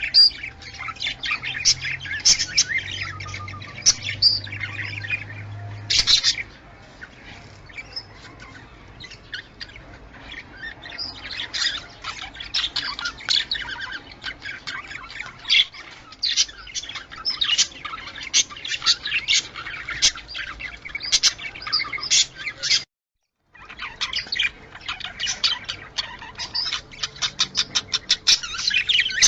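Budgerigars chattering, with dense, rapid chirps, warbles and squawks overlapping. There is a sudden silent break of under a second about two-thirds of the way through.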